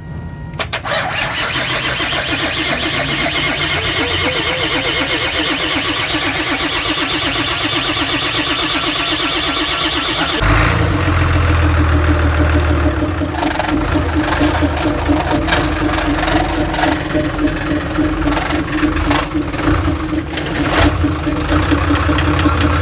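An engine cranking on its starter for about ten seconds, then catching and running steadily with a strong low rumble.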